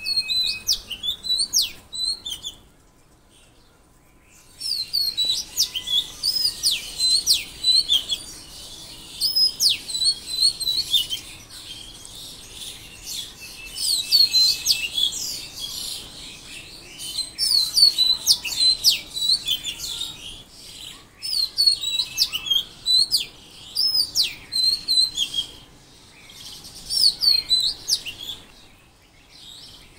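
Songbirds singing in repeated bursts of rapid, high chirps and short whistles, with short pauses between bursts.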